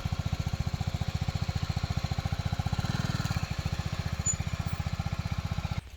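BMW GS motorcycle engine running at low revs, a steady thudding beat of about thirteen firing pulses a second, which cuts off abruptly near the end.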